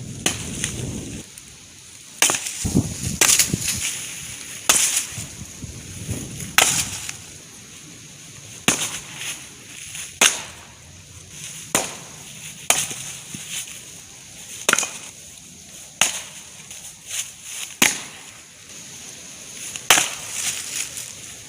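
Axe blows splitting chainsaw-bucked wood rounds: about a dozen sharp strikes, one every one to two seconds.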